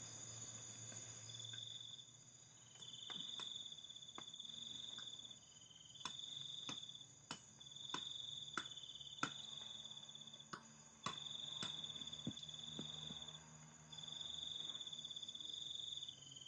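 Crickets trilling at night in repeated high-pitched bursts of a second or two, one voice slightly lower than another. Faint sharp clicks come here and there, about a dozen in all.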